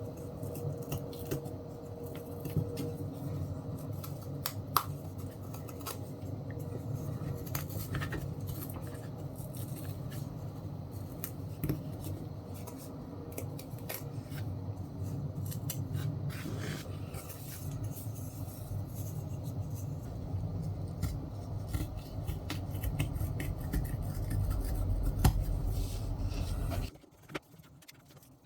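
Scissors snipping and fabric being pulled off the wooden blocks of an old Jacob's ladder toy, with scattered small clicks of wood over a steady low hum. The sounds stop abruptly near the end.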